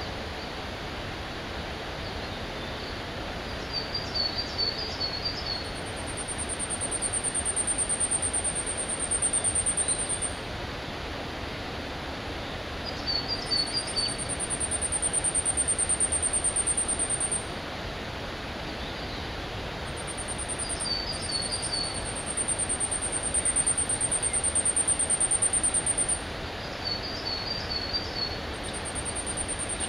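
Woodland birdsong over a steady outdoor hiss. A very high, thin, insect-like trill of rapid pulses runs for several seconds at a time and comes back about six times. Between the trills there are four short, twittering phrases at a lower pitch.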